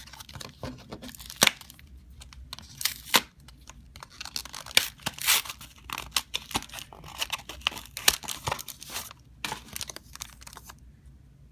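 A Pokémon trading card booster pack's foil wrapper is torn open and crinkled: a long run of sharp rips and rustles that stops suddenly about a second before the end.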